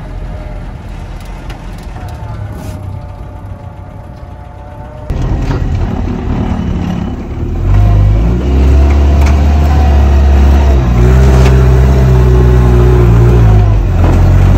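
Land Rover Series 1 engine running as the vehicle drives along a muddy track. It gets suddenly louder about five seconds in, and louder again a few seconds later, with the revs rising and falling.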